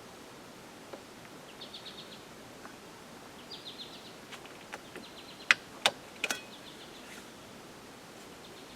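A small bird chirping in short quick trills of four or five notes, repeated several times, over faint outdoor background hiss. A little past halfway come three sharp clicks or knocks in quick succession, the loudest sounds here.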